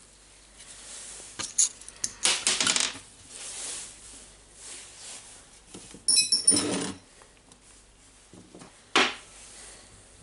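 Small metal parts clinking and rattling against a hard surface: a few separate handling noises, the loudest a ringing metallic clink with a short rattle a little past the middle, then one sharp knock near the end.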